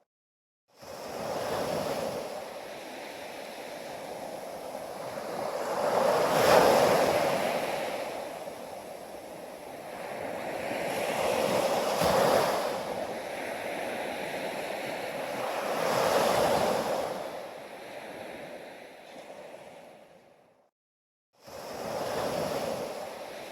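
Ocean waves breaking on a beach, the surf swelling and fading in several surges a few seconds apart. The sound cuts out completely for a moment near the start and again about 21 seconds in.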